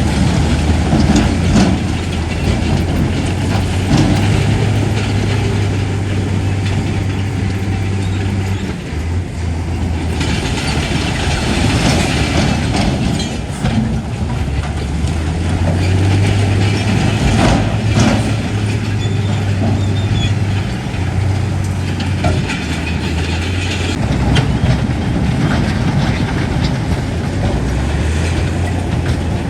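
Heavy diesel earthmoving machinery running under varying load, the low engine note strengthening and easing off several times, with scattered metallic clanks and knocks.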